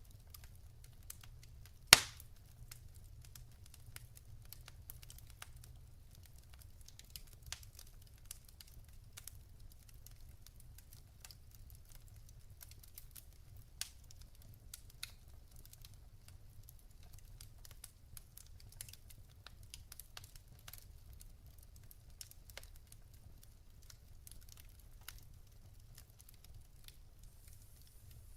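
Logs burning in a fireplace, crackling with scattered sharp pops and ticks over a low steady rumble; one much louder pop about two seconds in.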